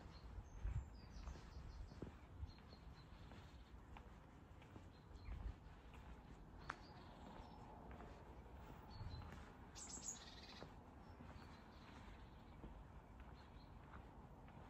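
Near-quiet with faint birds chirping now and then, a few soft low thumps, and a brief high hiss about two-thirds of the way through.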